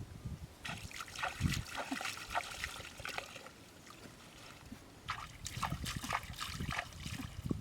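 Water splashing and trickling in two spells of a few seconds each, with a short lull between them.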